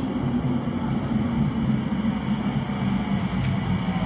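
Electric commuter train approaching the platform, a steady low rumble of wheels and traction motors with a faint drifting hum.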